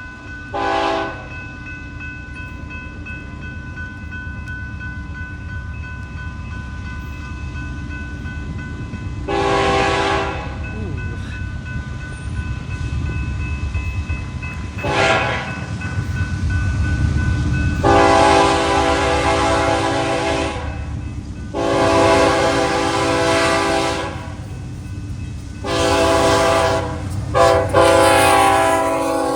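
A train approaching and passing, its locomotive horn sounding a chord: three short blasts spread over the first half, then three long blasts near the end. Under the horn, a steady rumble of engine and wheels builds through the middle.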